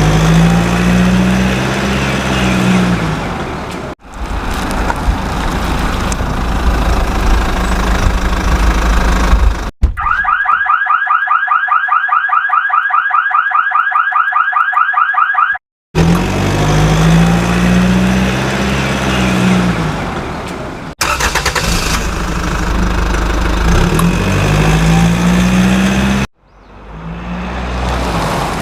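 Short vehicle sound clips cut together. There is engine noise whose pitch rises and falls, and in the middle a few seconds of a fast, repeating warbling electronic alarm tone.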